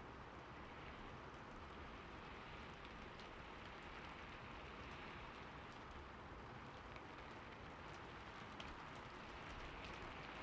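Steady rain falling on a roof: an even hiss with scattered drop ticks.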